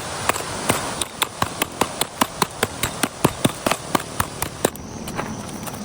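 Rapid, even hand tapping or knocking, about five light strikes a second, that stops shortly before the end. It is an attempt to work a broken piece loose.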